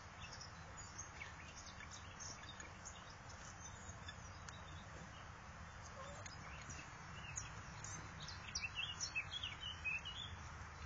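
Duckling peeping: short high peeps scattered throughout, coming thick and fast about eight and a half to ten seconds in, over a steady low background noise.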